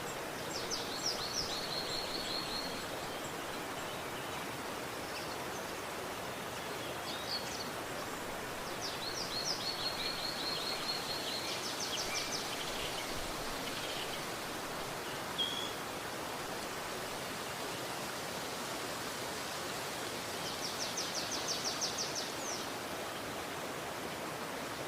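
River water flowing in a steady rush. A small bird sings three short phrases of rapid, high-pitched repeated notes over it: about a second in, around ten seconds in, and near the end.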